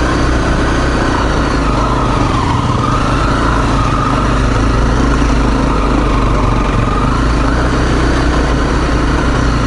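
Single-cylinder four-stroke dual-sport motorcycle engine running steadily at trail speed, its pitch dipping briefly about two and a half seconds in and then picking back up.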